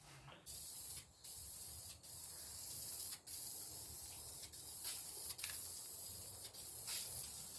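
Spray paint hissing out in a series of long passes with short breaks between them. It is laying down a first coat to even out a surface where the clear coat is chipped in patches, before the black goes on.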